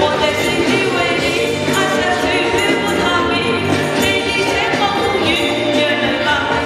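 Chinese pop ballad playing: a sung vocal with wavering, held notes over a full backing track.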